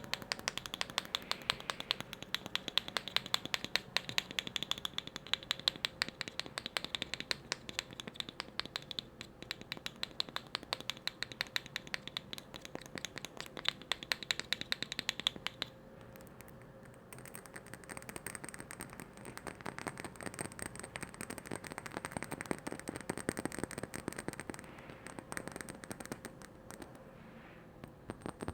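Rapid tapping on hard objects, many light taps a second with a faint ringing tone. About sixteen seconds in, the tapping pauses briefly and moves to an object that rings higher.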